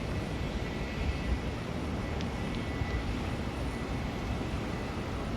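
Steady jet airliner noise at an airport, a low rumble with a faint high whine held steady.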